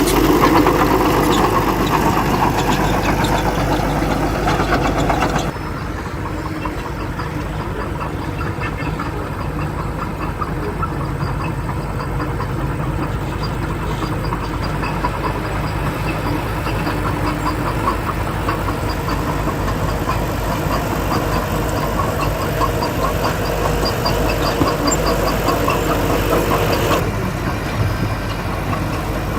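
Diesel engine of heavy earthmoving machinery running steadily. The sound changes abruptly about five seconds in and again near the end.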